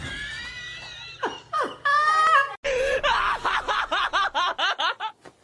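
A person laughing, a fast run of short rising 'ha-ha' beats from about two and a half seconds in, after a few shorter high cries.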